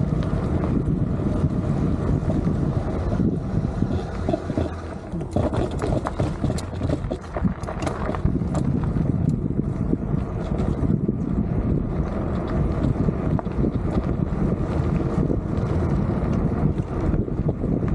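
Wind buffeting the camera microphone on a moving bike, over a steady low road rumble with scattered clicks and rattles.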